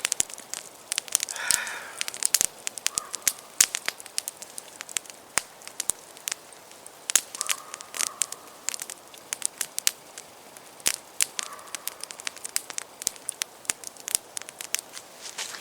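Campfire crackling, with sharp, irregular pops from the burning wood.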